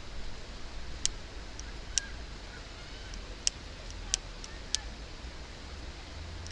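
Wood fire crackling in a small campfire grill: about eight sharp, separate pops over a steady low rumble.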